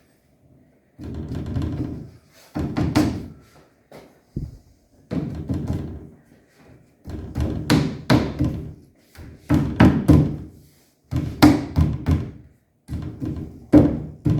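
A mallet striking wood in a series of heavy thunks, about seven groups of blows a second or two apart, driving a glued furniture part down onto its wooden dowels.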